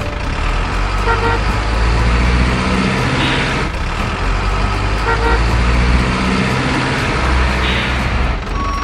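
Heavy truck engine running with a low rumble, with short horn toots about a second in and again about five seconds in, and a brief hiss twice, around three and a half and eight seconds in.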